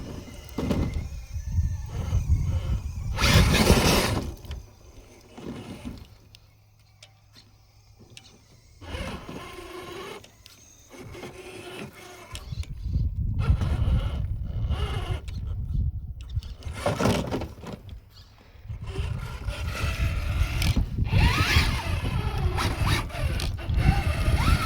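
Radio-controlled trail truck's electric motor and gears whirring in stop-start bursts, with a quieter stretch in the middle. Rumble of wind on the microphone runs underneath.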